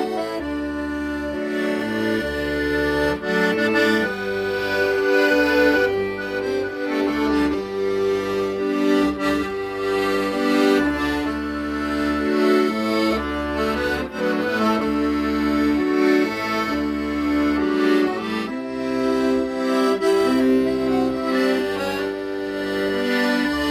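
Accordion playing a slow song melody in held notes over low bass notes that change every second or two.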